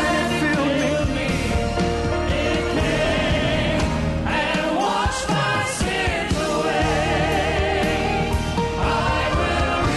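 Gospel worship music: sung voices with vibrato held over a band's sustained chords and steady bass.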